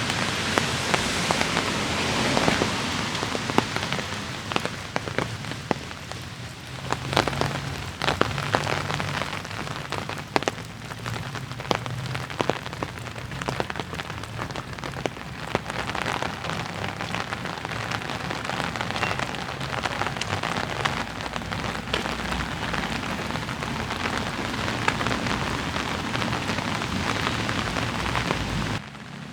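Light rain falling, a steady hiss with many close drops ticking individually on hard surfaces, over a low rumble. The level drops suddenly just before the end.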